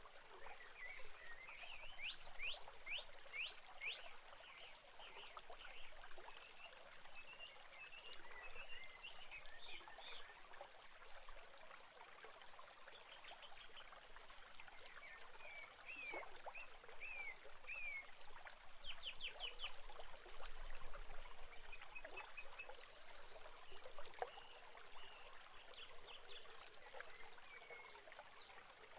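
Thin, high chirps and cheeps from small birds, some in quick runs of short sweeping notes, with faint crackling clicks scattered through.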